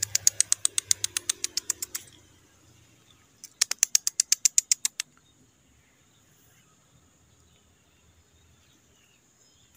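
A bird's rapid rattling call: two runs of sharp, high ticks at about ten a second, the first lasting about two seconds and the second, a second later, about a second and a half. After that only a faint, steady high-pitched hum remains.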